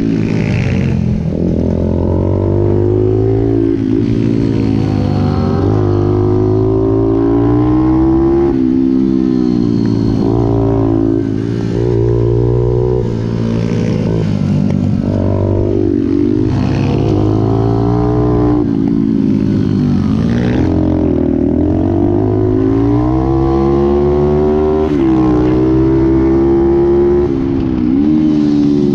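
Pit bike engine under hard throttle, its pitch climbing and then dropping again every few seconds, the rise-and-fall of a bike being ridden on a track. A few short clattering knocks are heard along the way.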